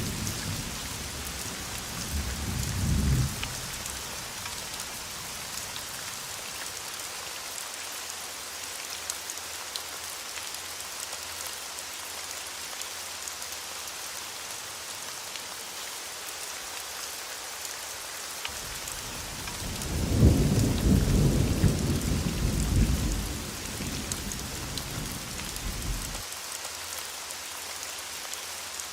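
Steady heavy rain hissing throughout, with thunder rumbling: a short rumble about three seconds in, and a longer, louder roll of thunder starting about two-thirds of the way through and fading after several seconds.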